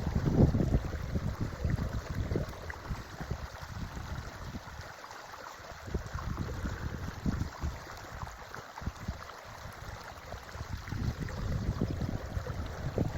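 Creek water running steadily, with uneven gusts of wind buffeting the microphone that swell near the start and again near the end.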